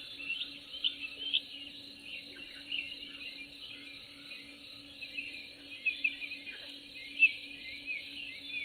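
Birds chirping in short, quick calls over a steady trill of insects, one chirp standing out loud about seven seconds in.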